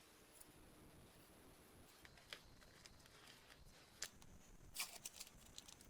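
Near silence: workshop room tone with a few faint short clicks and taps.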